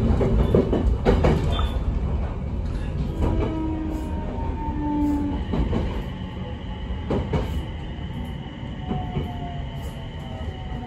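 Running sound heard inside an Abukuma Express AB900-series electric train car, which has a Mitsubishi IGBT VVVF inverter: a steady rumble of wheels on rail with scattered knocks. Faint motor whines fall slowly in pitch, a thin high steady tone comes in about halfway, and the sound grows a little quieter in the second half.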